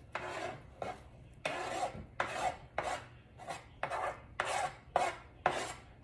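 A utensil scraping chopped chicken out of a dish into a stew pot: a run of short scrapes, roughly one every half second to second.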